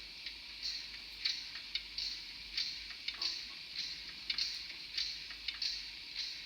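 Recorded air-pump sound from the Henning-sound DCC decoder in a Fleischmann N-gauge DR class 44 steam locomotive model, played through the model's small speaker. It is an even rhythm of short hissing puffs with sharp clicks, about one and a half a second: the steam locomotive's air pump working.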